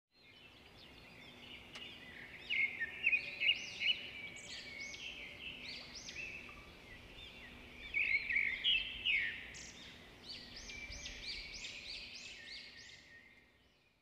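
Small birds chirping and twittering, many quick high notes coming in clusters, loudest about two to three seconds in and again about eight to nine seconds in, then fading out near the end.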